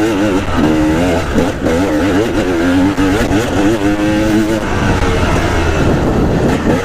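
Dirt bike engine under riding load, its pitch rising and falling quickly as the throttle is worked on the trail; in the second half the tone gives way to a rougher, steadier rush.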